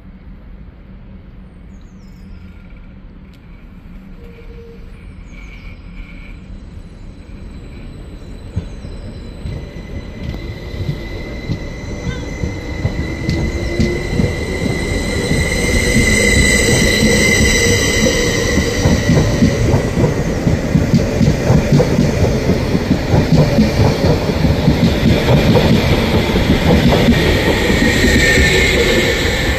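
A train running into the station, growing steadily louder over the first half, with rapid wheel rattle on the rails. A high metallic squeal starts about a third of the way in and comes back strongly near the end.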